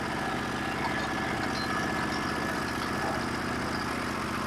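Norwood HD36v2 portable sawmill's engine idling steadily between cuts.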